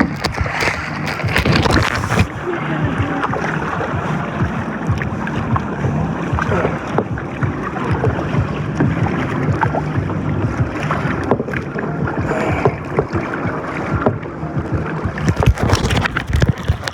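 Kayaks paddling on open water, with wind buffeting the microphone. Knocks and splashes come in clusters at the start and again near the end.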